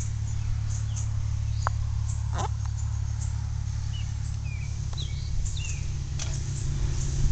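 A steady low rumble with scattered short bird chirps and a few light clicks.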